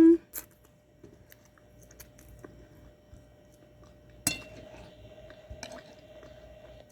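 A person chewing a mouthful of food close to the microphone: scattered soft, wet mouth clicks, with one sharper click about four seconds in.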